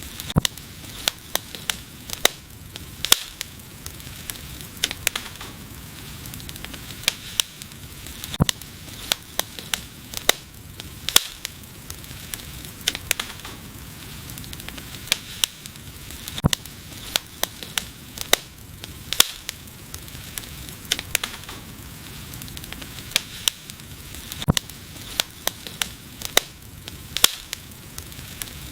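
Wood fire burning, with a steady low rush of flames under irregular sharp crackles and pops, several a second, some much louder than the rest.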